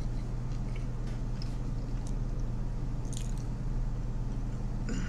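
A person chewing a mouthful of Philly cheesesteak pizza, with a few faint wet mouth clicks, over a steady low hum.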